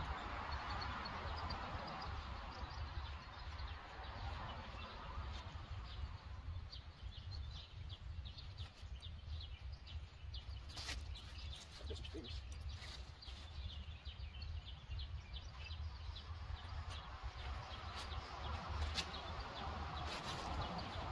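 Outdoor ambience: small birds chirping, with many short high chirps from about a third of the way in, over a steady low rumble.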